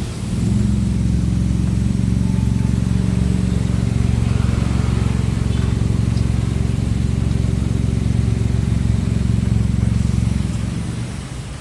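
A car engine running steadily. It swells up just after the start and dies away near the end.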